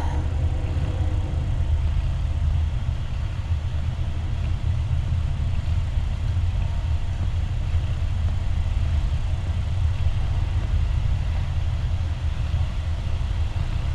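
Steady low rumble or hum with a faint hiss above it, unchanging and with no distinct events.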